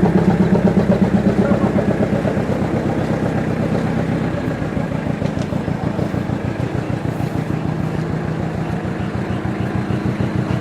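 An engine idling with a steady, even pulse; its note shifts lower about four seconds in.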